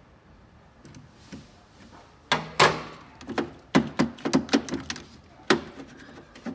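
Hands-on work in a vehicle's engine bay: a short rasping noise about two seconds in, then a quick run of sharp knocks and clicks of parts and tools being handled.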